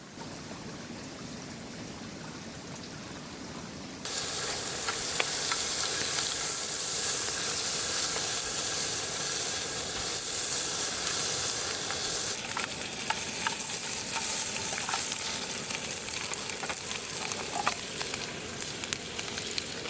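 Chicken for butter-grilled dakgalbi goes into a hot pan about four seconds in and starts sizzling suddenly, a steady dense hiss. From about twelve seconds on, clicks and scrapes of stirring in the pan come through the sizzle.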